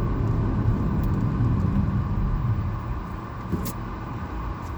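Road and engine noise heard inside a moving car's cabin: a steady low rumble that eases a little about three seconds in.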